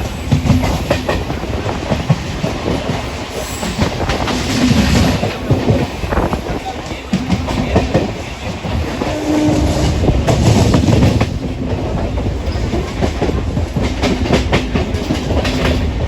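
Train running along the track, its wheels clattering over the rails in a steady stream of irregular knocks.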